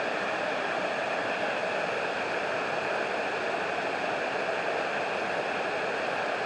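River water pouring steadily over an old gristmill dam, an even rushing without breaks.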